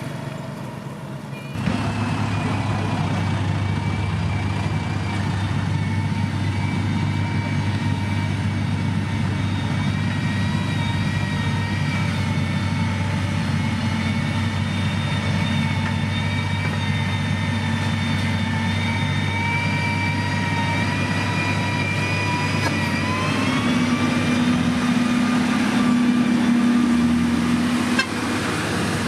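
Motor grader's diesel engine running steadily, with a steady whine over the engine note. About two thirds of the way through the engine revs up and its pitch rises and stays higher.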